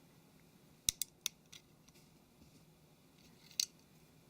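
Small sharp clicks of a phone's micro SD card tray being pulled out and handled: a quick run of four clicks about a second in, then one more click near the end.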